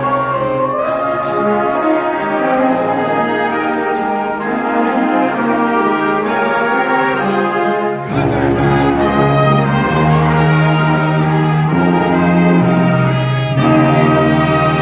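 High school wind band playing, with brass to the fore; a strong low brass line comes in suddenly about eight seconds in.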